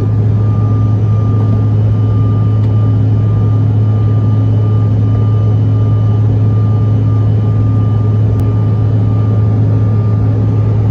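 Steady jet-engine cabin noise inside a Bombardier CRJ900 regional jet: a loud, even low drone with a constant thin whine above it.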